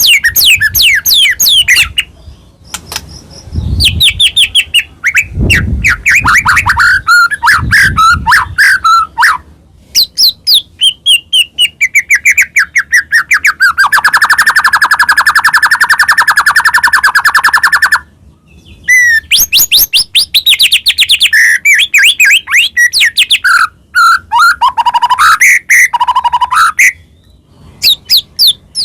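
White-rumped shama singing a loud, varied song of rapid trills, rising and falling sweeps and whistles, in phrases broken by short pauses. Midway it holds a long, even buzzing rattle for about four seconds.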